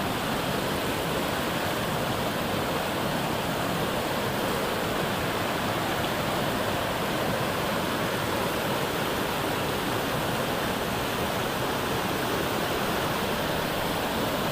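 Hot spring water flowing out of the ground with a steady, even rush.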